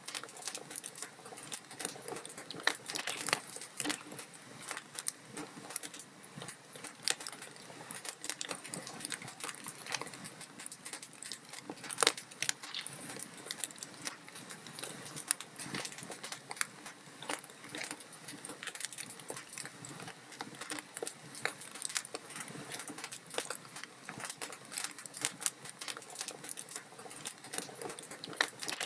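Wood log fire in a fireplace crackling: a dense run of small snaps and ticks over a soft hiss, with occasional louder pops, the sharpest about twelve seconds in.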